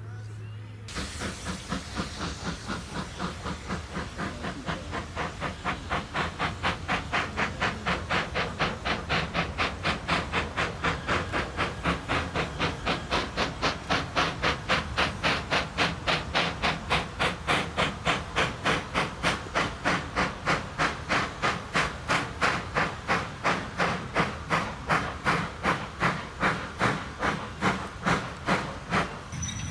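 Steam locomotive working under steam: a steady chuff of exhaust beats, about two to three a second, over a hiss of steam, slowly growing louder.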